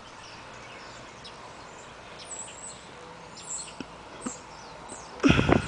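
Birds chirping now and then in short high calls over steady outdoor background noise, with one short loud burst near the end.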